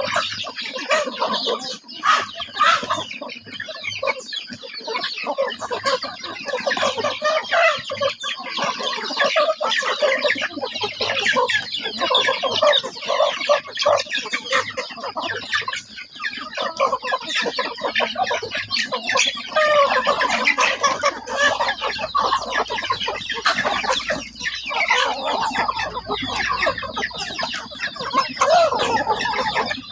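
A flock of young chickens clucking and calling continuously, many birds at once with overlapping calls.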